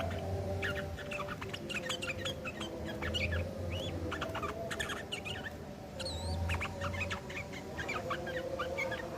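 Yellow-vented bulbuls (trucukan) in a harsh, fast chattering of short, overlapping chirps and twitters, the rough 'ngeriwik' fighting chatter used as a lure to make other bulbuls answer.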